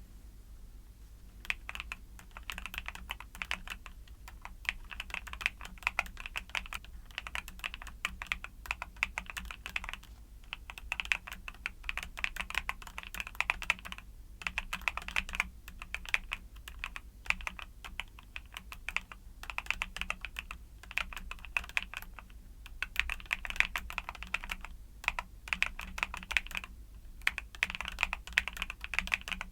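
Fast typing on a YUNZII mechanical keyboard with Cocoa Cream switches: dense runs of key clacks, broken by brief pauses every few seconds. It starts about a second and a half in.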